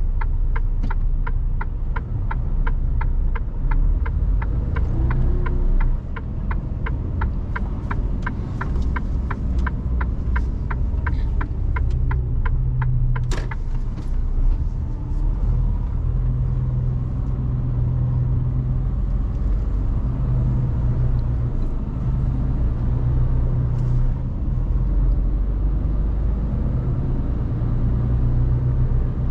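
Mercedes-Benz Actros truck's diesel engine running with a low, steady rumble, heard from inside the cab. For about the first half, the turn indicator ticks quickly and evenly, about two clicks a second. The ticking stops after a single louder click.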